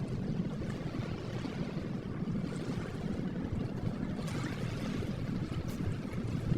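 Ocean waves washing in a steady, low rushing sound.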